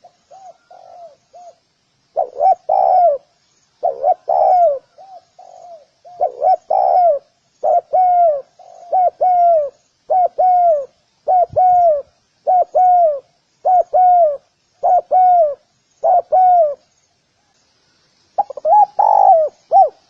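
Spotted dove cooing repeatedly: a long series of short coos, each bending down in pitch, with a brief pause near the end before the cooing resumes.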